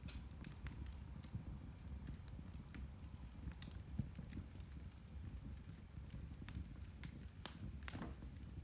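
Turf (peat) fire crackling: irregular sharp pops and ticks over a low steady rumble, with one louder pop about four seconds in.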